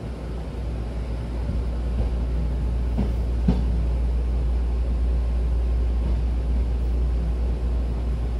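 Hankyu Kobe Line electric train running, heard from inside the passenger car: a steady low rumble, with two short knocks about three seconds in.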